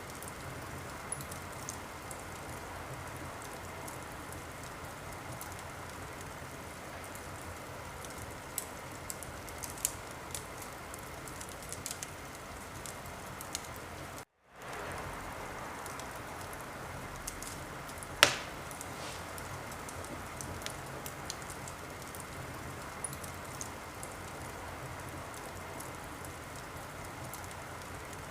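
Wood fire in a fireplace crackling steadily, with scattered sharp pops and one loud pop about 18 seconds in. The sound cuts out completely for a split second about halfway through, then fades back in.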